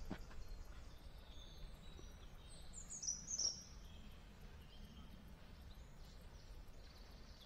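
Small birds chirping and singing over a faint, steady outdoor background, with a brighter flurry of quick, high chirps about three seconds in.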